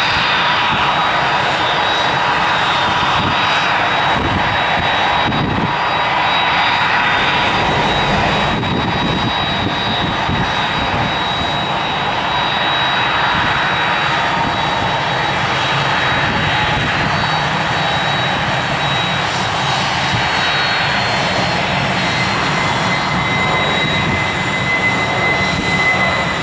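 Airbus A320's jet engines running steadily at taxi power: an even rush with a thin high whine over it. A second, lower whine comes in near the end.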